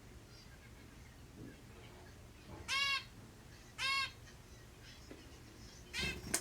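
Zebra finch giving three short, nasal, honking calls, each slightly arched in pitch, about a second apart and then two seconds apart, followed by a sharp click near the end.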